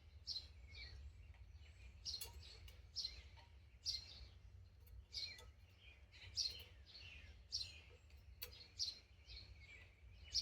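A small bird chirping over and over: short, high chirps that sweep downward, about one or two a second, over a steady low rumble.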